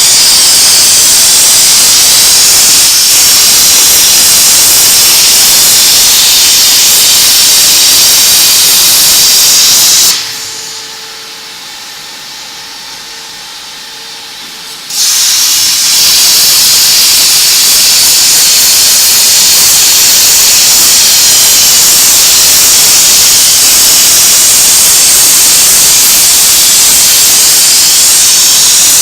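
CNC plasma cutting torch cutting metal, a loud, steady hiss. About ten seconds in the arc stops for roughly five seconds, leaving only a faint hum with a steady tone, then the hiss resumes.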